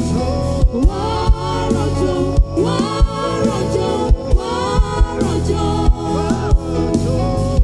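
Gospel worship music: a choir of singers over a band, with a steady bass-drum beat.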